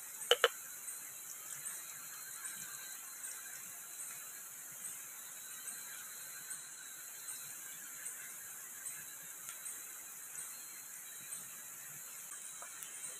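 Two sharp knocks right at the start, a wooden spatula struck against the wok, then the steady hiss of shallots, garlic and chillies frying in a wok over a portable gas stove. A faint high chirp repeats a little more than once a second behind it.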